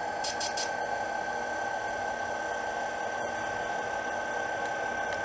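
HO-scale SD45-2 model locomotive's Tsunami sound decoder playing a diesel idle through two sugar cube speakers: a steady engine hum with a thin constant whine. Three quick hisses come near the start.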